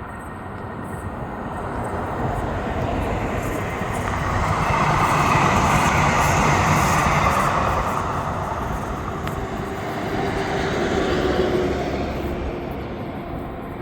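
Sacramento Regional Transit light rail train passing by: its noise builds to a peak about halfway through, then fades away, swelling briefly again near the end.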